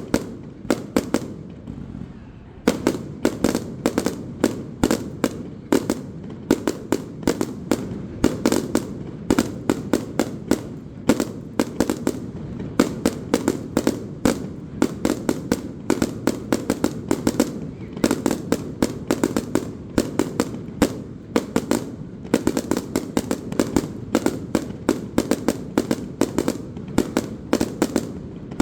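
Fireworks display: aerial shells bursting in a dense barrage, several sharp bangs a second over a continuous rumble. The bangs are briefly sparser about one to two seconds in, then keep coming thick and fast.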